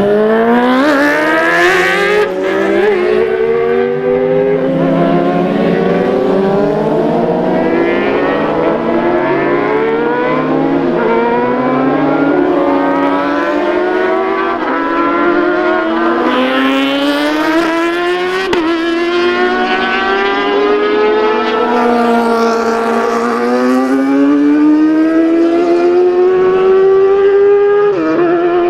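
Racing motorcycle engines at high revs accelerating through the gears, the pitch climbing and falling back at each upshift, over and over, with several bikes overlapping.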